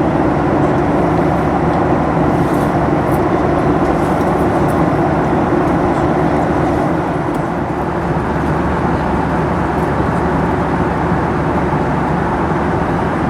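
Steady drone inside the passenger cabin of a Boeing 737-800 in flight: its CFM56 jet engines and the rushing airflow making an even, unbroken noise with a low hum.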